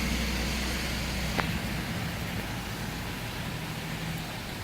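A car's low engine rumble that fades out about a second and a half in, with a steady hiss of rain and wind behind it.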